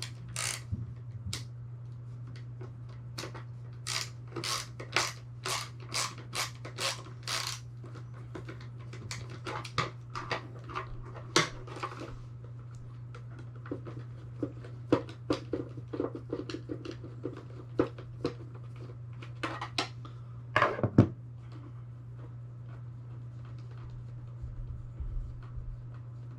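Small metal hardware and a hand tool clicking and tapping while a small screw is fitted and tightened, with a run of evenly spaced clicks about two a second a few seconds in and a louder double clack late on. A steady low hum runs underneath.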